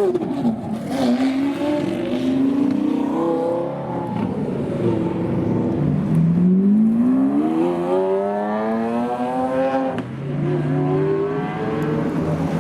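Loud supercar engines revving and accelerating, their pitch climbing in several long sweeps. The longest rise builds over about four seconds and then drops off suddenly near the end.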